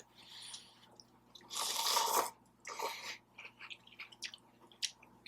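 Close-mic eating sounds: biting and chewing food in short bursts, the loudest about two seconds in, with small wet clicks of the mouth.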